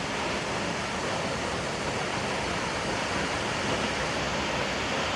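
Steady, unbroken rush of falling water, as from a waterfall.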